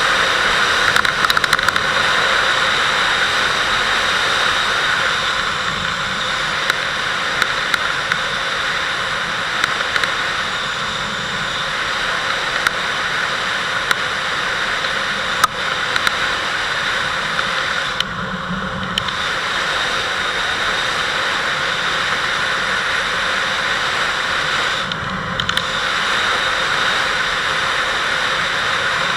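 Kawasaki Vulcan 800 V-twin motorcycle on the move, its engine low under a steady rush of wind noise on the microphone. The rush briefly drops twice, about two-thirds of the way through and again near the end, while the engine note swells.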